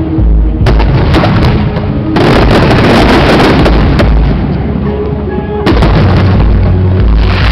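Aerial fireworks bursting one after another, with loud bangs every second or two, deep booming and crackling between them.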